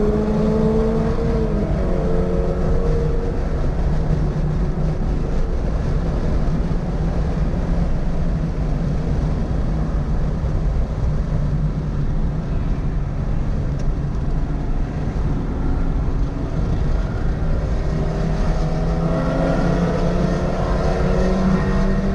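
Toyota GR86's 2.4-litre flat-four engine under track driving. It revs high and drops sharply about a second and a half in, runs lightly under road and wind noise through the middle, then pulls up through the revs again near the end.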